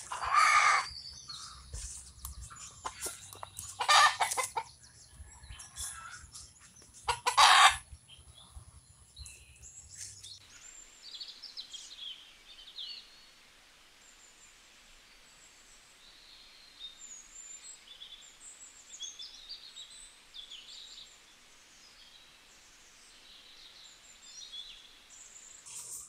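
Birds: three loud calls in the first ten seconds, then faint high chirping of small birds for the rest.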